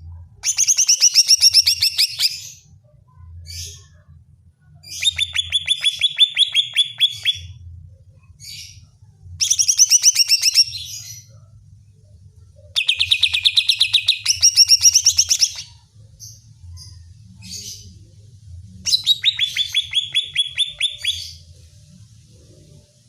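Green leafbird (cucak ijo) singing: five bursts of fast, repeated high chattering notes, each about two seconds long and roughly four seconds apart, with short single calls in between.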